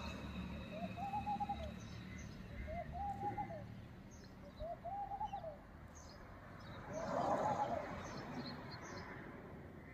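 A bird calling a short note that rises and falls in pitch, repeated four times about two seconds apart. Faint high chirps of other small birds sound above it.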